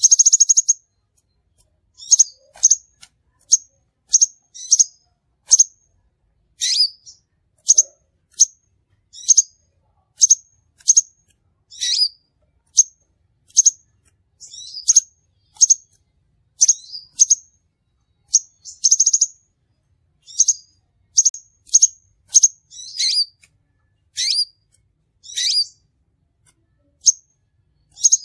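Crimson sunbird calling: a steady series of short, sharp, high-pitched chirps, about one or two a second. A brief rapid trill comes at the start and another about two-thirds of the way through.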